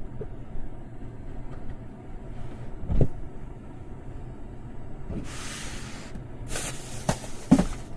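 Steady low rumble of wind buffeting the truck topper, with a single knock about three seconds in and two bursts of rustling, with knocks, in the second half as gear is handled.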